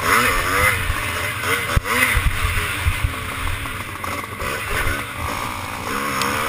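Classic motocross bike engine revving up and down repeatedly under racing load, with short low thuds as the bike goes over rough ground.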